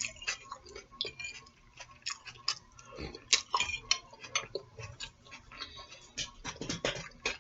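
Close-up eating sounds: a run of small, irregular mouth clicks and smacks, several a second, as food is chewed.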